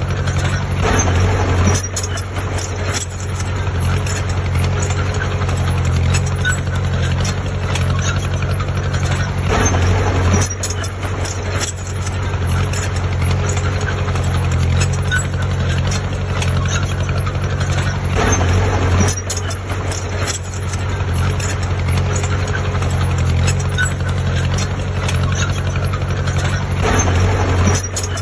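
Heavy diesel construction machine engine running steadily, swelling louder several times about nine seconds apart, as under load.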